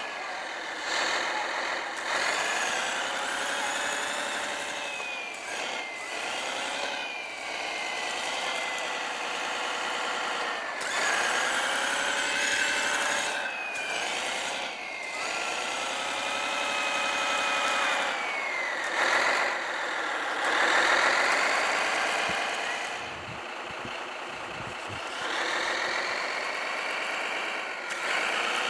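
Diesel snow-groomer engine sound played by the RC model's Servonaut SMX sound module, rising and falling in revs every few seconds as the model works. Over it runs a thinner high whine that glides up and down with the model's speed.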